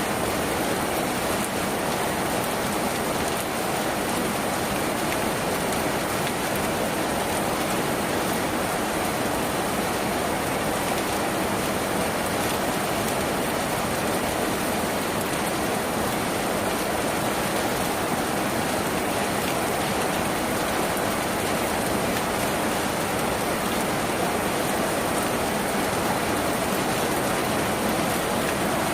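Steady, heavy rain on a tin roof, an even, dense patter that holds at one level throughout.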